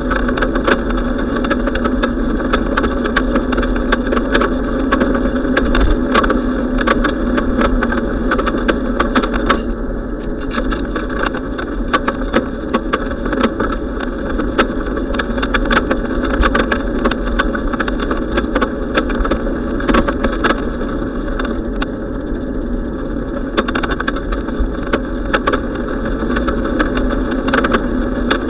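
Steady wind and road noise on a riding bicycle's camera, with frequent clicks and rattles from bumps.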